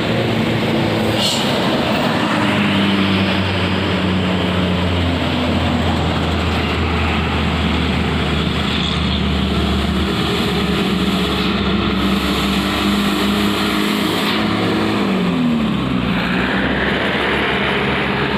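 Heavy trucks passing on a road: continuous low engine drone with tyre and road noise, the engine note dropping in pitch about three-quarters of the way through.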